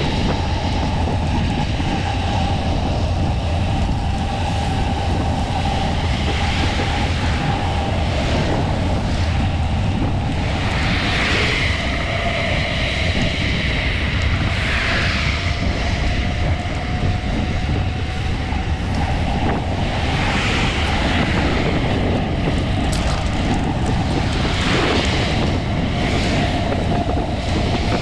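Steady wind rumble on the microphone of a camera travelling on a moving bicycle, with road traffic swelling and fading a few times.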